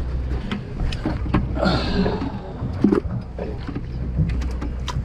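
Low, steady hum of the party boat's engine, with scattered sharp knocks and clatter on deck and a few brief voices in the background.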